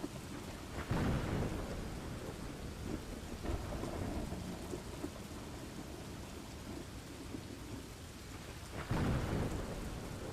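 Steady rain with two rumbles of thunder, one about a second in and another near the end.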